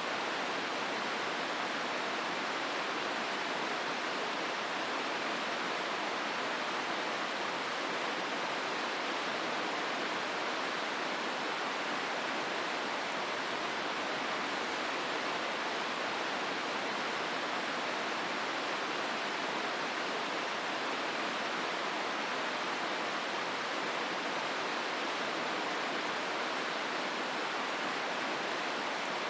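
Steady rush of a river flowing through a rocky gorge, an even wash of water noise with no change.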